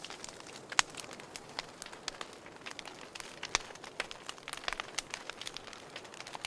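Burning firewood crackling in a fireplace: irregular sharp pops and snaps over a soft hiss, with louder pops just under a second in and about three and a half seconds in.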